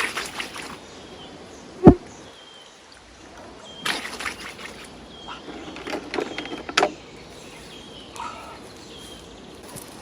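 Rustling and handling sounds in forest undergrowth, with one sharp knock about two seconds in, over short high chirps repeating about once a second.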